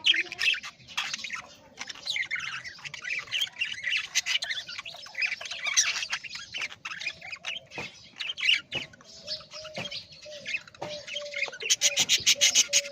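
Parrots squawking and chirping in a busy, overlapping chorus, with a quick burst of rapid chatter near the end.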